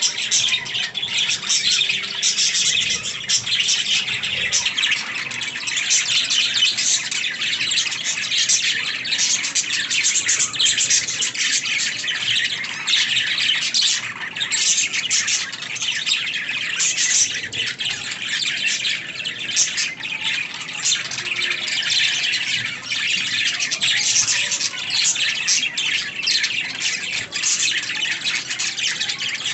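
Budgerigars chirping and chattering continuously, a dense run of high, quick chirps and warbles with the odd squawk.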